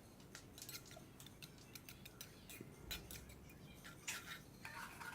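Faint, scattered clicks and light scrapes of a cooking utensil against a frying pan as scrambled egg and squid are stirred.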